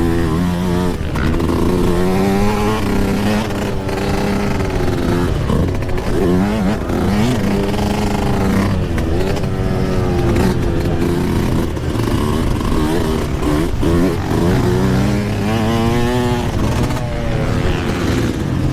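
Yamaha YZ125 two-stroke dirt bike engine being ridden hard, its pitch repeatedly climbing and dropping every second or two as the throttle is worked and gears change.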